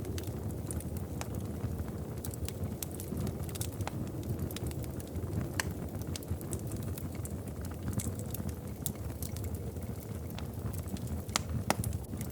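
Wood fire crackling in a fireplace: irregular sharp pops and snaps, a few louder ones near the end, over a steady low rumble.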